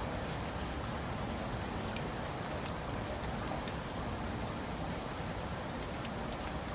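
Steady rain falling, a continuous patter with scattered individual drop ticks.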